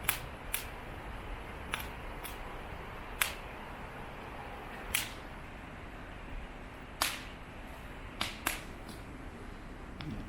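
Wood campfire crackling: sharp, irregular pops every second or so over a low steady hiss of burning.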